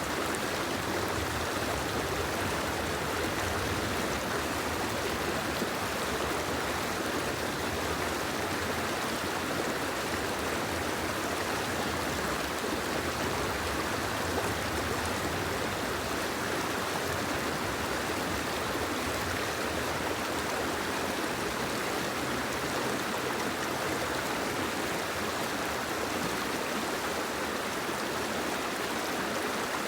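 Steady, even rush of water with no separate drops, splashes or changes.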